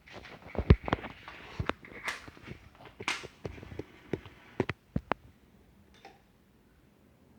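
A series of sharp clicks and knocks of hard objects being handled, dense for about five seconds, then a faint, quiet stretch.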